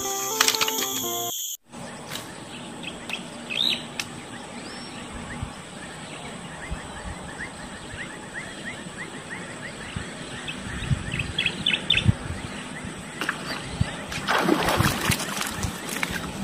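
Wild birds chirping over a low outdoor hiss, with a long run of quick, evenly spaced chirps in the middle and a few short trills. A snatch of music cuts off about a second and a half in, and there is a short burst of noise near the end.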